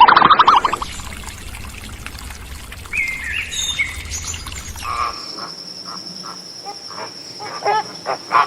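A brief electronic warbling tone at the start, then birds chirping in an outdoor ambience with short rising and falling calls and a thin steady high note in the background.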